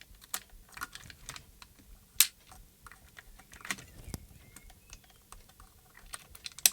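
Irregular small clicks and taps of hard plastic as loose button pieces and the radio transmitter's plastic case are handled and shaken to get the fallen buttons out. One sharp click about two seconds in and another near the end stand out.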